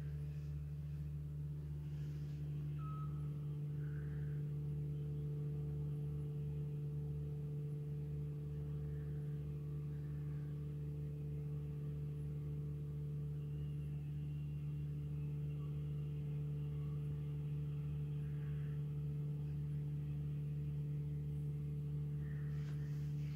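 Steady hum and low rumble of an idling car, heard from inside its cabin.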